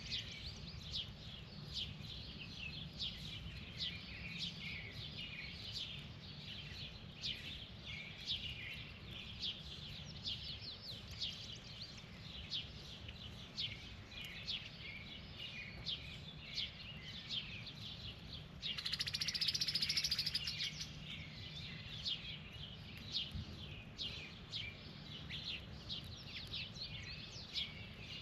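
Many small birds chirping in quick, overlapping calls, with a louder buzzy, rasping call lasting about two seconds just past the middle. A low steady hum runs underneath.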